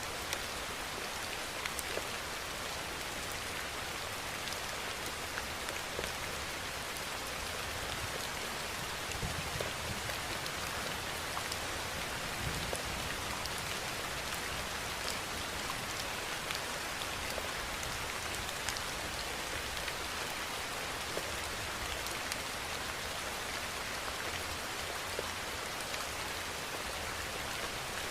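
Rain falling steadily: a dense, even hiss dotted with sharp ticks of single drops hitting a surface.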